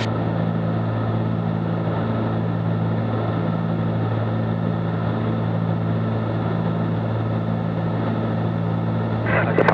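Cabin drone of a Cessna 310Q's twin six-cylinder piston engines and propellers running steadily in flight, a constant low hum with no change in pitch.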